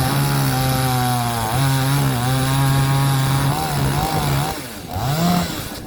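Gasoline chainsaw cutting through an oak log, its engine held at a steady high pitch under load. Near the end the pitch drops, then rises briefly again.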